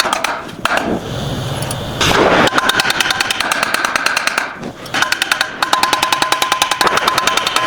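Rapid hammer strikes on steel, about ten a second, with a metallic ring: a rivet being peened over and spread to hold the stacked rose petals to the stem.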